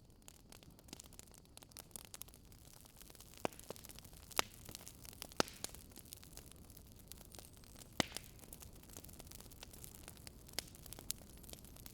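Wood fire crackling: irregular sharp pops and snaps over a faint steady hiss, a few louder pops about four, five and eight seconds in.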